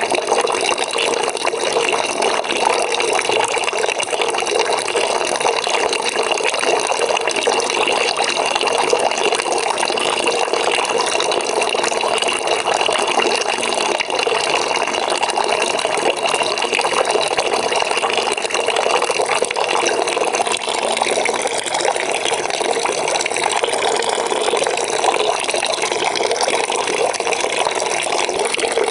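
Water running steadily from a tap into a bucket, a continuous splashing rush at an even level.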